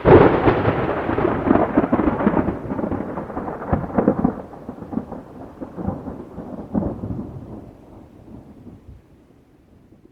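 Thunder: a sudden loud clap, then a rolling rumble that swells again several times and fades away over about nine seconds.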